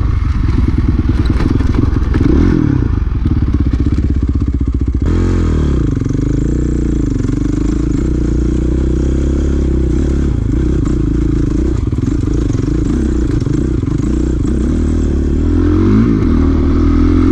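Dirt bike engine running under way as it is ridden on a trail, its pitch rising and falling with the throttle. There is a clear change in the engine note about five seconds in and a rise near the end.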